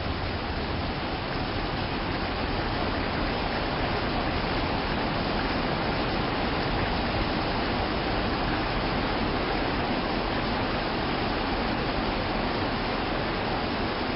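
Steady rain: an even hiss with no separate drops or tones, growing slightly louder about two seconds in.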